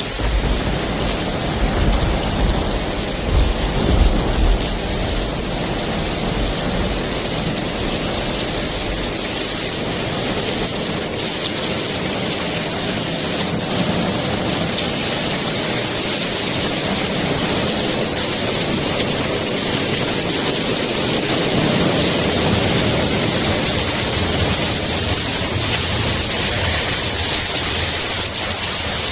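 Steady rain with a high hiss throughout, and a low rumble of thunder in the first several seconds that swells around three to four seconds in and dies away.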